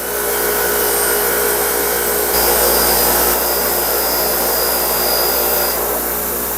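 Bench power tool running steadily while abrading an old screwdriver, with a hum and a gritty rushing sound. The contact grows louder a little over two seconds in, and a high whine rises over it until near the end.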